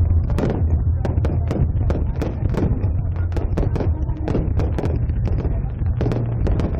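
Fireworks going off in a continuous barrage, with many sharp bangs and crackles in quick, irregular succession over a steady low rumble.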